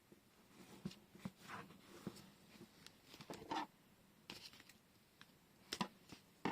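Faint handling of washi tape and paper: scattered light taps, clicks and rustles, with a couple of sharper clicks near the end.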